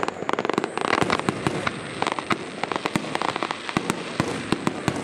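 Aerial fireworks shells bursting overhead with rapid crackling pops and sharp cracks. They are densest in the first second and a half and more spaced out after that.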